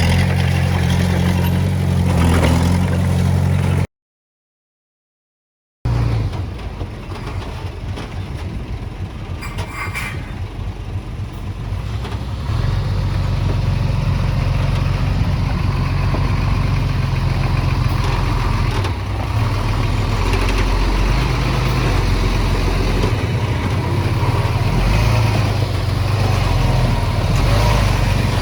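Heavy-equipment diesel engine running at work. It breaks off into dead silence for about two seconds a few seconds in, comes back lighter, then runs louder and heavier from about halfway.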